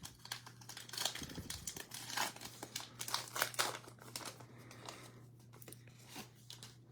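Cellophane wrapper of a basketball trading-card cello pack crinkling as it is torn open and the cards are handled: irregular crackles and rustles, busiest in the first half.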